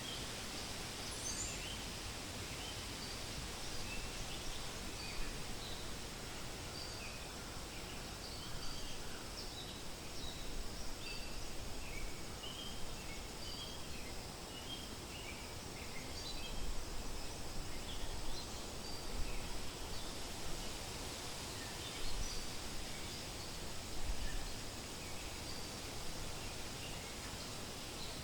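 Forest ambience: a steady rustle of wind with scattered short bird chirps and calls throughout, and a few low gusts.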